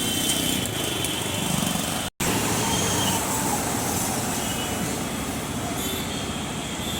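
Steady road traffic noise that cuts out for an instant about two seconds in.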